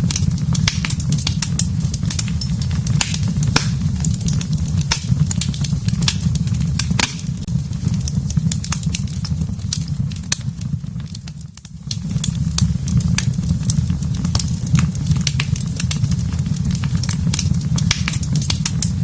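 Wood fire burning in a fireplace: frequent sharp crackles and pops over a steady low rumble of the flames, which briefly dies down about two-thirds of the way through.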